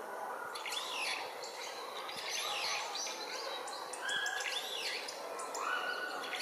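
Several wild birds calling and chirping over one another, with quick chirps and sweeping calls and a few short held notes about four and five seconds in.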